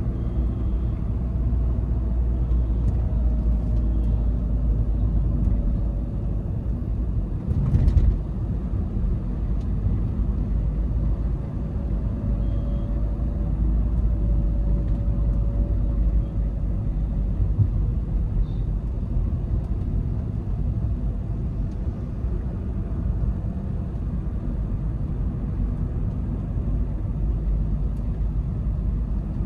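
Volkswagen Vento 1.5 TDI diesel car on the move: a steady low rumble of engine and road noise with a faint whine that drifts slowly in pitch. A single sharp thump about eight seconds in.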